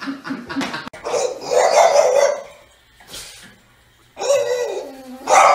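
Small dog barking in loud harsh bursts, with a falling whining cry about four seconds in and another loud bark near the end. A person's laughter fills the first second.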